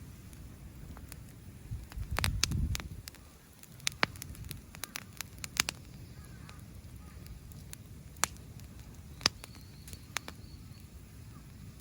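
Wood bonfire crackling, with sharp pops scattered at irregular intervals. There is a brief low rumble about two seconds in.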